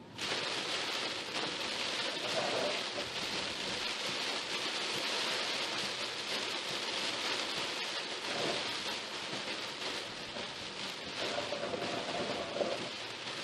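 Rain pelting a car as it drives through a thunderstorm, a steady dense hiss that comes in abruptly louder at the start.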